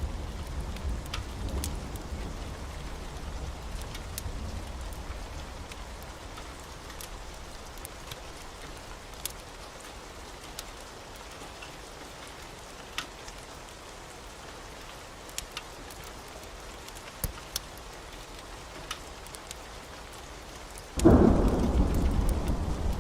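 Steady heavy rain with a low thunder rumble that dies away over the first few seconds and scattered sharp ticks. Near the end, a sudden loud thunderclap breaks in and keeps rumbling.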